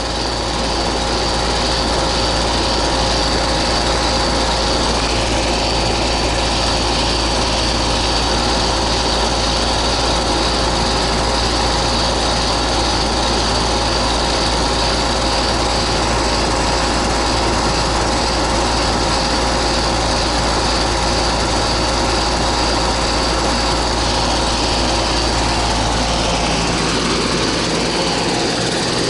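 Goodman R22 central air-conditioning condensing unit running: compressor and condenser fan giving a steady hum with a constant high whine. The system is cooling normally, with pressures and superheat in range.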